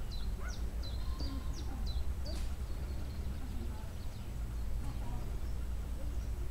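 A songbird singing a quick run of short, high, downward-sweeping chirps for the first two seconds or so, then falling quiet, over a steady low rumble.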